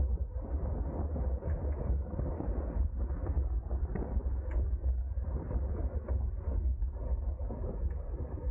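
Steady wind buffeting on a bicycle-mounted camera's microphone at racing speed, a heavy low rumble mixed with road and tyre noise.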